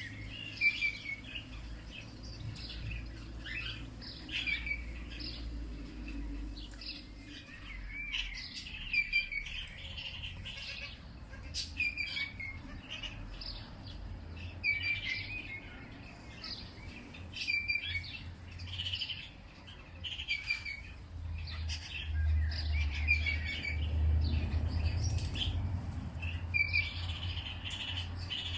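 Songbirds chirping and calling in short, quick phrases, one after another, with several birds overlapping. A low rumble underneath grows louder in the last third.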